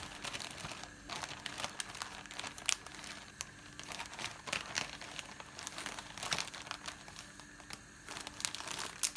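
Plastic packaging being handled, crinkling and rustling with many small irregular crackles.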